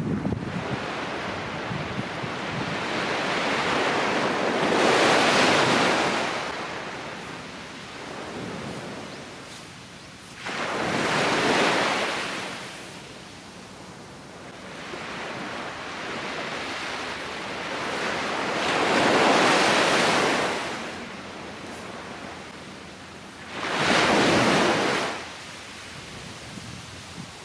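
Ocean surf breaking and washing up the shore, swelling and fading four times in a slow rhythm, with a steady rush of surf between the waves.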